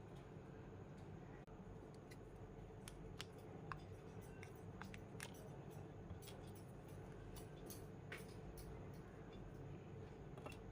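Scattered light clicks and ticks, irregular and mostly from about two seconds in, over a faint steady low hum.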